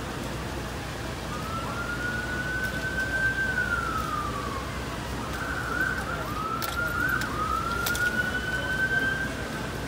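Emergency vehicle siren wailing in long rising and falling sweeps, breaking into a quick yelp about halfway through, then wailing up again, over steady street noise.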